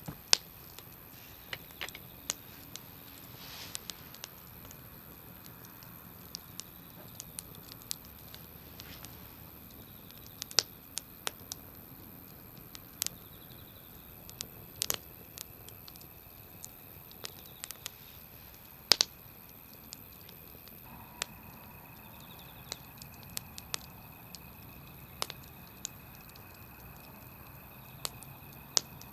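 Wood campfire crackling: irregular sharp pops and snaps over a low hiss, a few much louder than the rest.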